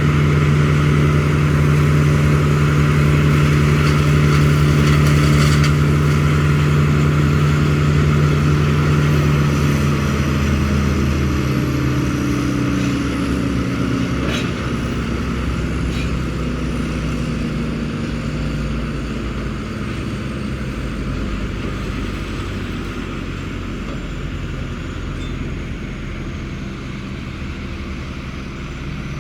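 An engine running steadily, then dropping in pitch about eleven seconds in and growing gradually quieter.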